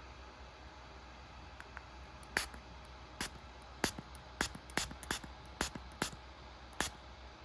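A run of about nine short, sharp clicks or taps, unevenly spaced, starting about two seconds in, over a steady low hum.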